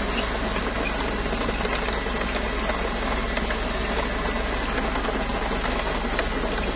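Mini bulldozer's diesel engine running steadily, with a fast, even clatter.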